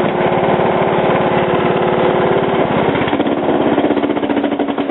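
The 18 hp Kohler engine of a Troy-Bilt Bronco lawn tractor running loudly. Its pitch drops about three seconds in as it slows, and it dies away right at the end.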